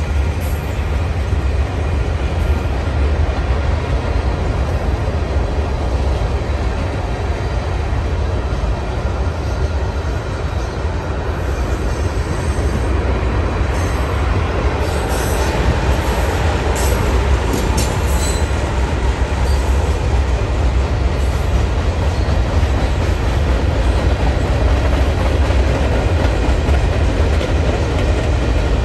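Freight cars of a Union Pacific manifest train rolling past: a steady, loud rumble of steel wheels on the rails, with a few short high-pitched wheel squeaks about halfway through.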